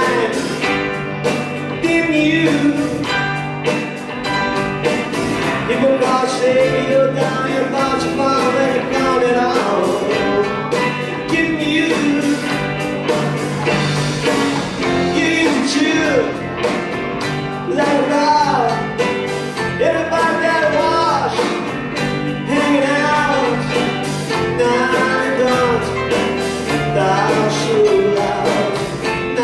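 Rock and roll band playing live: drums, bass and guitar under a melodic lead line that bends in pitch, at a steady loud level.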